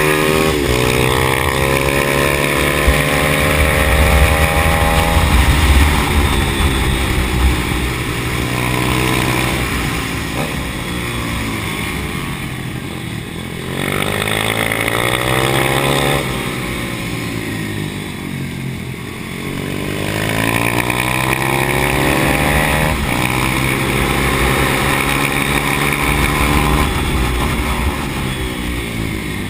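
Pit bike's small single-cylinder engine heard from on board at full race pace, its pitch climbing as it revs out and falling back when the rider shuts off, over and over through the lap, with wind rumble on the microphone.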